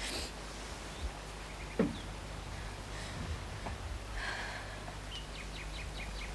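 Quiet outdoor night ambience over a low steady hum. A brief low sound slides downward about two seconds in, and near the end a songbird gives a quick run of short repeated chirps.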